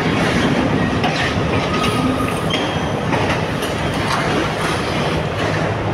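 Sri Lanka Railways Class S8 diesel multiple unit running past along a platform, its wheels clattering on the rails over a steady low engine drone.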